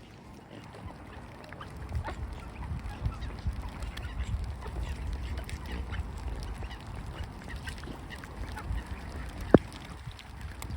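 Ducks and swans calling over steady wind rumble on the microphone. A single sharp knock comes about nine and a half seconds in.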